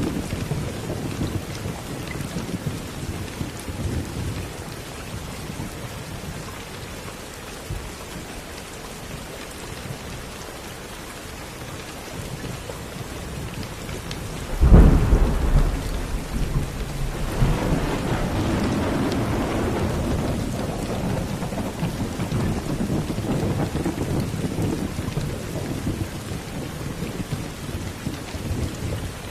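Steady rain with low rumbles of thunder. About halfway through comes a sudden, sharp thunderclap, the loudest moment, followed a couple of seconds later by a long rolling rumble that slowly fades back under the rain.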